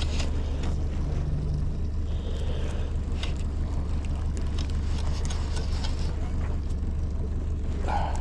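Boat motor running at a steady low hum, with scattered light clicks and knocks over it.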